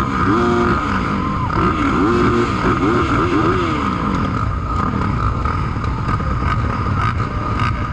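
Motocross dirt-bike engines revving, their pitch rising and falling several times in quick succession during the first half. After that they give way to steadier running, with a constant high whine throughout.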